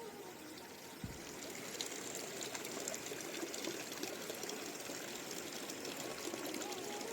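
Steady rainfall with water running and trickling, an even hiss.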